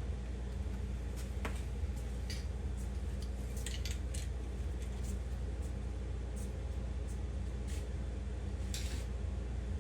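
A steady low hum, with a dozen or so light clicks and taps scattered through it.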